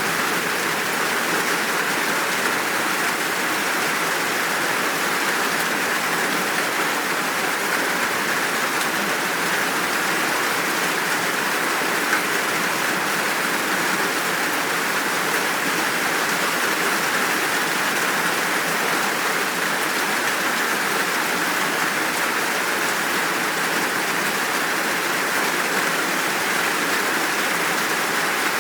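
Steady, full downpour of rain, an even hiss with no let-up.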